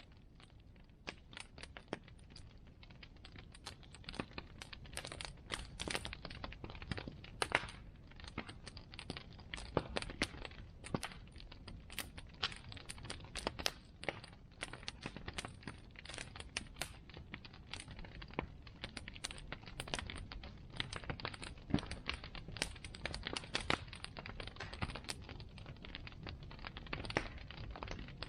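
Bonfire crackling: burning wood giving off irregular sharp snaps and pops, many per second, over a steady low rumble of the fire.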